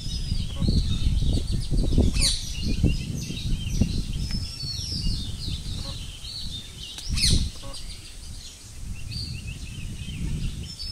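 Many small birds chirping and whistling in short, high calls, over an uneven low rumble.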